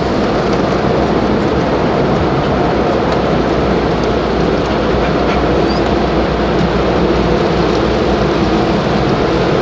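Automatic car wash running around the car, heard from inside the cabin as a loud, steady rushing of water jets and machinery.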